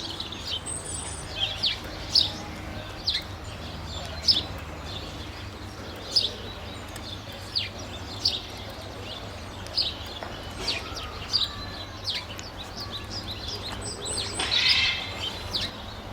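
Small birds chirping: short, sharp, high chirps about once a second over a low steady hum, with a denser burst of chattering about fourteen seconds in.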